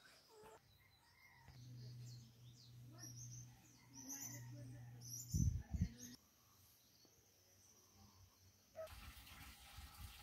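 Birds chirping in short, high calls, with two dull thumps about five and a half seconds in. Near the end a steady rush of running water starts at a concrete wash basin.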